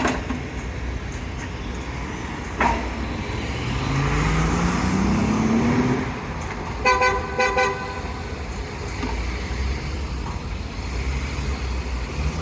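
Street traffic rumbling, with an engine revving up in a steady rising pitch, then a car horn giving a quick run of short toots about seven seconds in.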